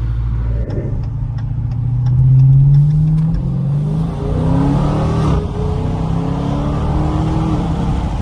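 Dodge Scat Pack V8 accelerating hard with its exhaust opened up. The revs climb, step down at an upshift about three seconds in, then climb again. Faint ticking is heard over the engine in the first few seconds.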